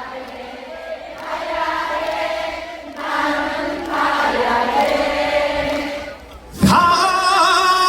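A large audience singing a trot chorus together, many voices at once. Near the end a single strong solo voice comes in clearly over them.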